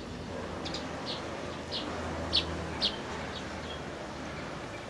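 A small bird chirping: a series of short, high chirps, repeated about every half second.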